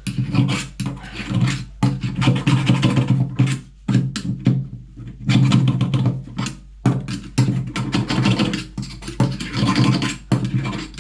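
Tool scraping and grinding through the debris clogging a sink waste outlet, to open holes between the outlet's slots, in rough repeated bouts with short pauses.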